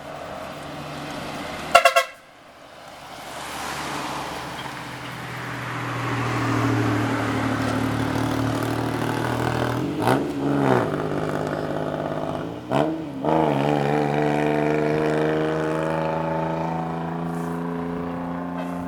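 A decorated diesel truck: a short horn blast about two seconds in, then the truck's engine building up as it pulls past. The engine note swoops twice, around the middle and again a few seconds later, then settles into a steady drone.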